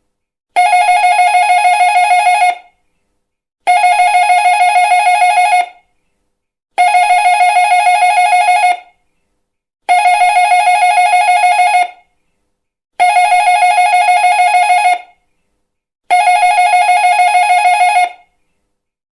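Electric doorbell ringing with a rapid trill, six rings of about two seconds each, roughly three seconds apart.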